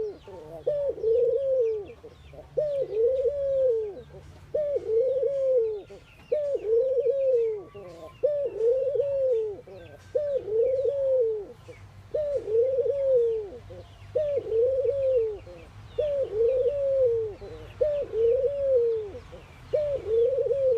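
Ringneck doves cooing in an unbroken series of deep, arched coos, about one a second. Small birds chirp faintly and high behind them.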